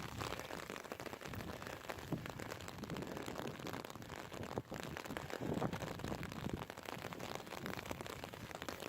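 Wind buffeting the microphone in gusts, with a gust swelling a little past halfway, over the steady hiss of light rain.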